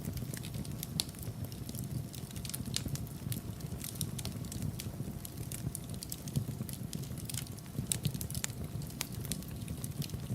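Wood fire burning in a fireplace: a steady low rumble of flames with frequent irregular pops and crackles.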